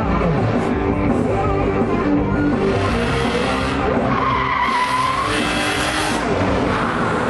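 Car engine running with its tyres squealing in a skid, strongest about four to five seconds in, over music.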